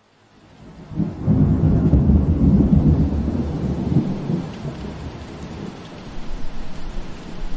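Rain falling, fading in from silence, then a long low roll of thunder that swells about a second in, stays strong for a few seconds and slowly dies away under the steady rain hiss.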